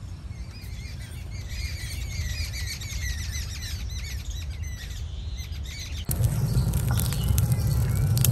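Birds chirping and singing in quick runs of short repeated notes over a low steady rumble. About six seconds in this cuts off abruptly to louder outdoor noise, with a deeper rumble and scattered clicks.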